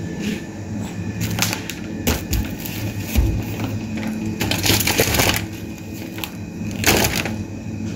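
Crinkling and rustling of plastic food packaging being handled, in several irregular bursts, the longest about halfway through, over a steady low hum.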